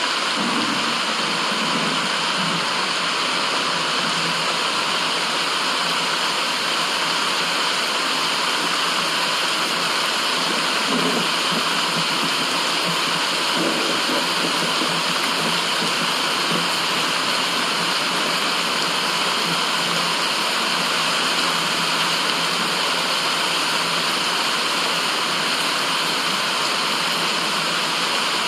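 Steady, even rushing white noise with a water-like hiss, unchanging throughout.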